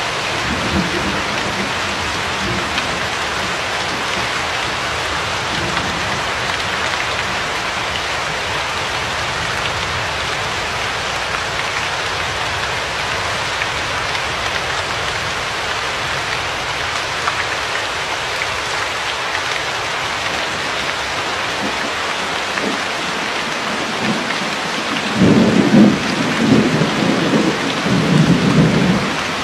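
Steady rain falling, an even hiss throughout. Near the end, a few seconds of low rolling thunder rumbles over the rain and breaks off suddenly.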